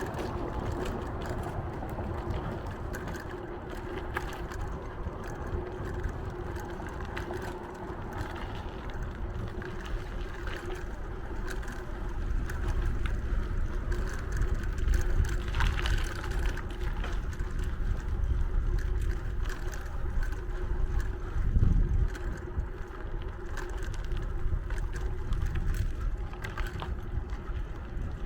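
Wind and road noise from riding a bicycle, with a steady low hum running under it. The wind rumble gets heavier about halfway through, with a low bump a little later.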